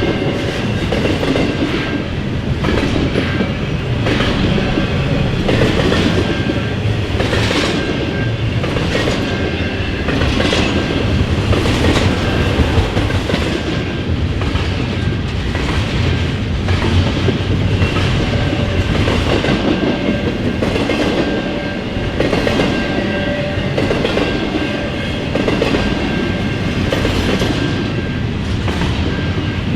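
A long CN freight train rolling past at speed, with a steady rumble and roar of wheels on rail. Repeated clacks come as the cars' wheels cross rail joints.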